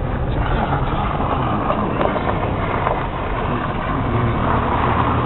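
Car being driven on a snow-covered road, heard from inside the cabin: steady engine hum and tyre noise.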